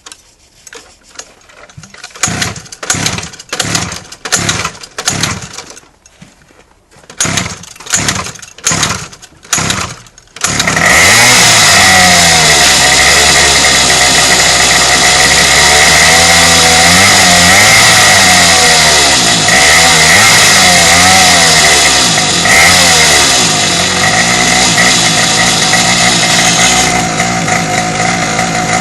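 Minibike's small single-cylinder engine being cold-started: the starter is pulled in two runs of quick cranks, about two a second with a pause between the runs. About ten seconds in the engine catches and keeps running, its speed rising and falling.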